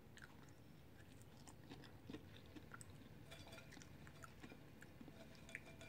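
Faint chewing of a Flamin' Hot Cheetos-coated chicken wing, with scattered small mouth clicks and crunches.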